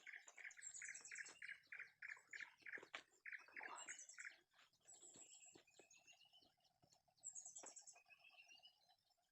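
Faint forest birdsong: one bird repeats a note about three times a second for the first four seconds or so, while others add high trills and short rising phrases. A steady drone, like an insect's, joins about halfway through.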